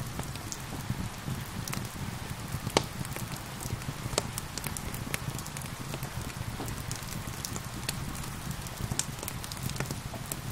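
Wood fire crackling with irregular sharp pops, over a steady hiss of gentle rain and a low rumble. One louder pop about three seconds in.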